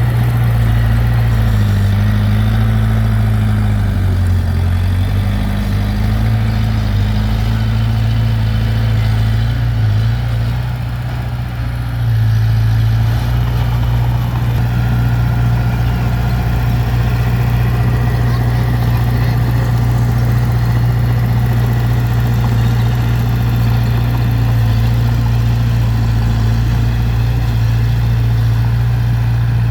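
Heavy earthmoving machine's diesel engine running steadily, its note wavering and dipping in the first few seconds and its loudness dropping briefly a little before the middle.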